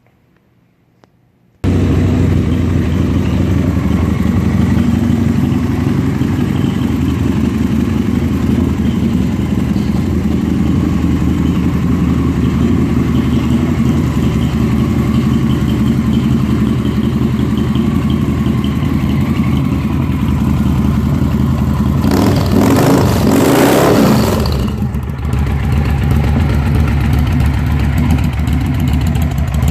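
2007 Victory 8-Ball's Freedom V-twin engine with Bassani exhaust, running loud and steady at idle. It comes in abruptly after a second or two of near silence, with a brief louder rush about two-thirds of the way through.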